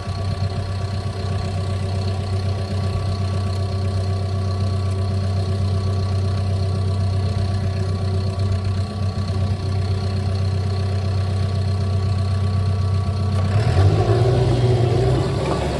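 Cat bulldozer's diesel engine running steadily. Near the end it revs up and a louder, rougher clatter joins it.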